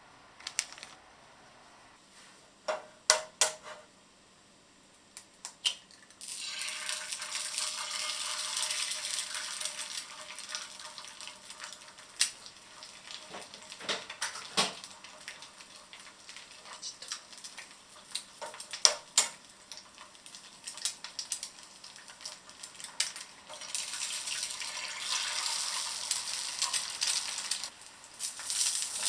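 A kitchen tap runs into a sink, with dishes and utensils clinking. A few sharp clicks and knocks come first; the water starts about six seconds in and stops briefly near the end.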